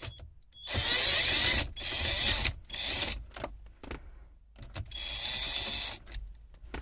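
Plastic dashboard trim of an Audi A6 C7 being pried and pulled loose by hand: several scraping bursts of about a second each, with a few short clicks between them.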